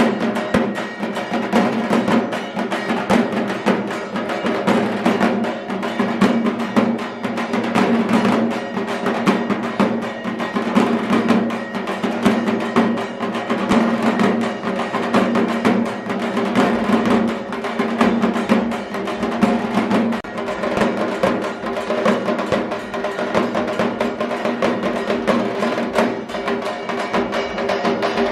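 Music driven by fast, continuous drumming, with sharp rapid strokes over a steady sustained tone.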